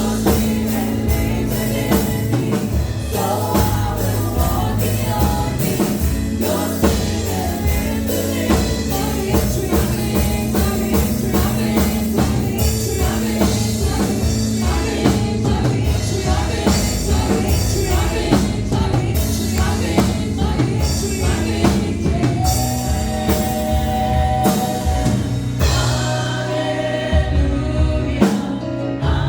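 Live gospel music: a band with drum kit and bass plays while singers carry the melody of a praise song.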